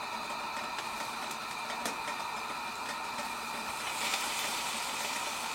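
Food frying on a hot wood stove: a steady sizzling hiss with a few faint crackles, growing a little louder about four seconds in.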